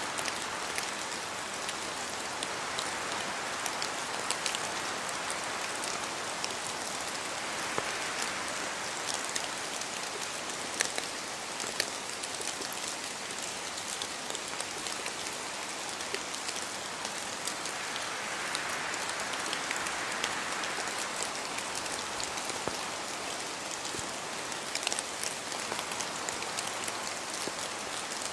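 Rain falling in a forest: a steady hiss dotted with many separate drops hitting leaves and the ground, falling from the trees. A softer rush swells and fades a few times as wind moves through the trees.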